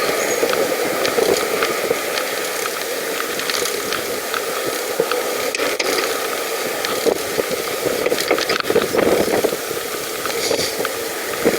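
Pedal bicycle being ridden along a path: a steady rolling noise with many scattered clicks and rattles.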